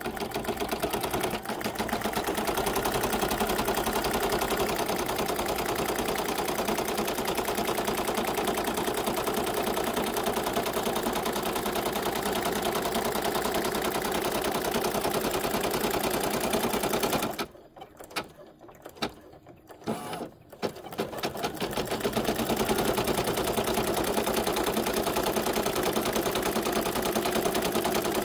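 Embroidery machine stitching an in-the-hoop design, a fast, even run of needle strokes. It stops for about three seconds a little past halfway, then starts stitching again.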